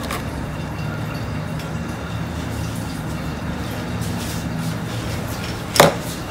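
Steady low hum, with one sharp click near the end.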